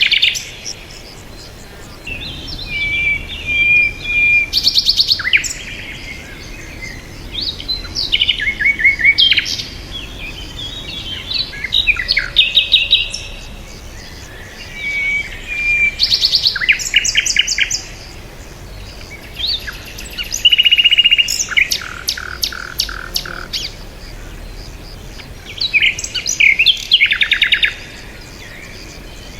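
Bird song: bursts of varied high chirps, quick trills and short whistled notes, coming every couple of seconds.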